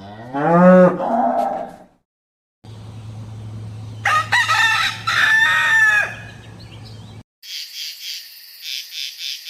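A cow moos once. After a short break, a rooster crows over a steady low hum. Near the end a high, rapidly pulsing chirring begins.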